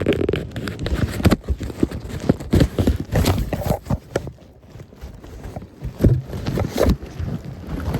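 Irregular knocking and bumping, quieter for a moment around the middle.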